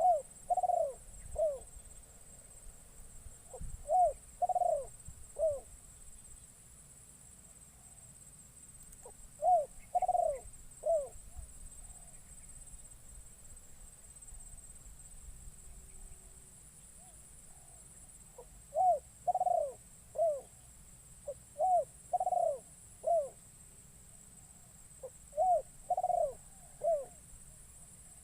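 Spotted dove (terkukur) cooing in short three-note phrases, six in all, with a long pause midway. This is a decoy bird calling to lure wild doves.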